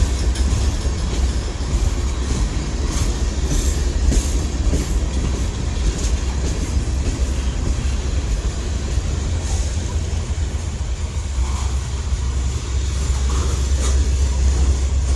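Norfolk Southern manifest freight train's cars rolling past, a steady loud rumble of steel wheels on rail.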